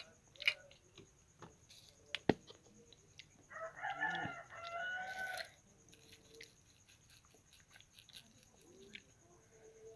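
A rooster crowing once, a single call of about two seconds near the middle. A few sharp clicks come earlier and are the loudest sounds.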